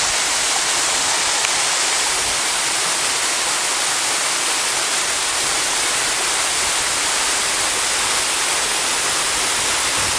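Waterfall plunging, a steady, even rush of falling water.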